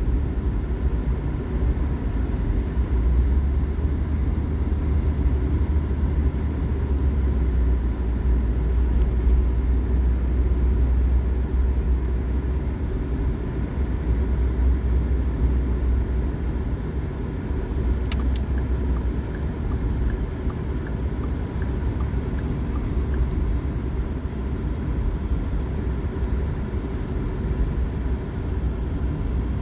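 Car driving on a winter road: a steady low rumble of engine and tyre noise, with a faint steady whine and a few light clicks about eighteen seconds in.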